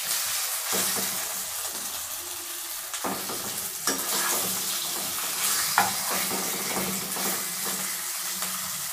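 Oil sizzling steadily as semolina-and-pea cakes shallow-fry in a nonstick kadhai with a tempering of mustard seeds, curry leaves and sesame. A steel spatula scrapes and taps the pan a few times as the cakes are moved.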